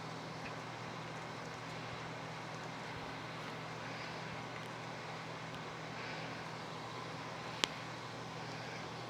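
Steady low hum and hiss, with one sharp click about seven and a half seconds in.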